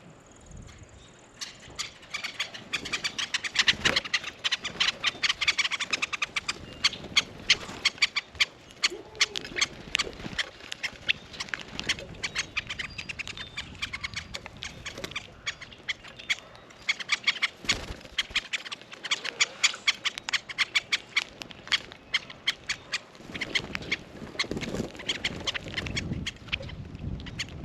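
Birds at a feeder: a fast, irregular run of short, sharp clicks and chips.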